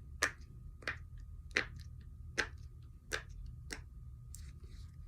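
Silicone pop-it fidget toy being pressed bubble by bubble on its good side: a series of sharp single pops, about one every 0.7 s, six clear ones followed by a few fainter ones.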